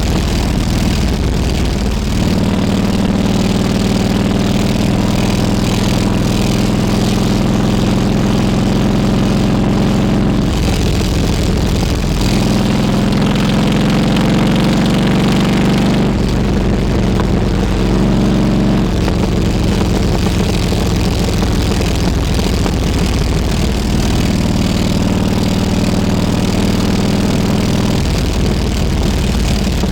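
Harley-Davidson Road King Classic's V-twin engine running on a ride, its note rising and dropping several times as the rider speeds up and shifts.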